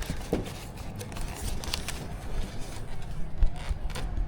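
A few light clicks and taps from hands handling the plastic and foam parts of a model plane during assembly, over a low steady rumble.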